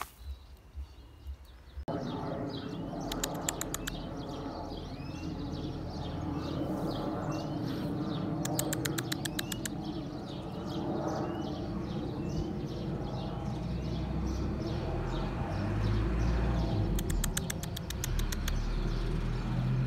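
Small birds chirping outdoors: a short, falling call repeated about twice a second, with three short bursts of rapid clicking. A steady hiss and low rumble run underneath from about two seconds in.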